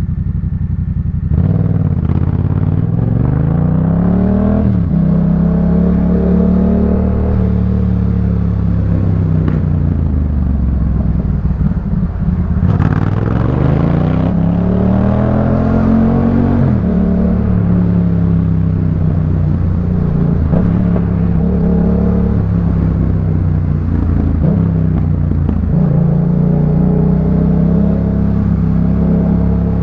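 Yamaha MT-07's 689 cc parallel-twin engine through a Jeskap K4 full aftermarket exhaust, ridden on the road. The engine rises in revs about a second in, drops at a gear change and then holds steady. It then falls off, pulls hard again around twelve seconds in, and cruises with a few quick dips in revs near the end.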